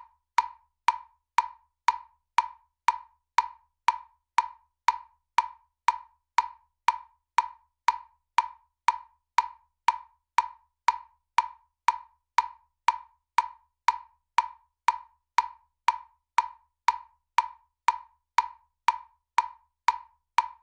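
Metronome clicking at a steady beat, about two clicks a second, each click short and identical.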